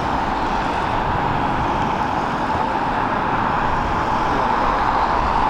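Jet aircraft engines running, a steady rumble with a constant hum that holds level throughout.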